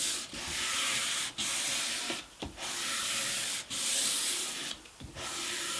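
Hand-sanding a wooden guitar fretboard with 240-grit cloth-backed sandpaper: long, even back-and-forth rasping strokes of about a second each, with brief pauses between them.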